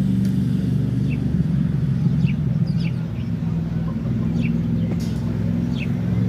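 Small birds chirping, short high chirps repeated every half second to a second, over a steady low engine hum.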